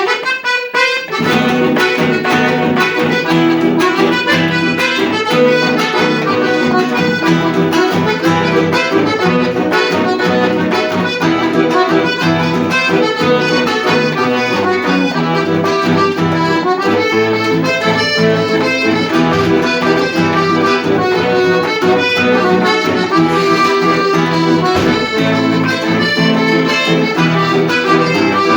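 Instrumental music led by an accordion, with a steady beat.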